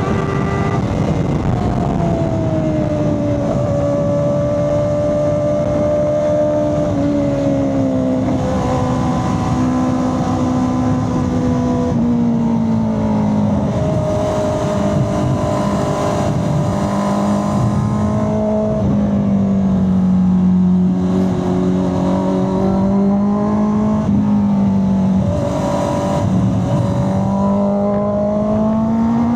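Honda CB650R's 649 cc inline-four engine and exhaust under way, the engine note rising and falling repeatedly as the throttle opens and closes through a series of bends.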